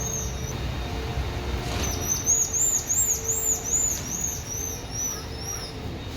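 Tamarin giving a rapid series of high-pitched chirping whistles, about three a second. One run ends about half a second in, and a second run starts about two seconds in and fades away, over a steady low background rumble.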